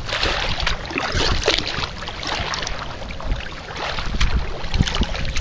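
Water splashing and lapping around a kayak, with many small splashes and knocks, under wind buffeting the microphone.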